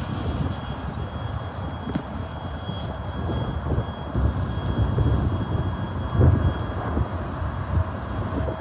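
Double-stack intermodal freight train's well cars rolling away over the rails, a steady uneven rumble of wheels on track.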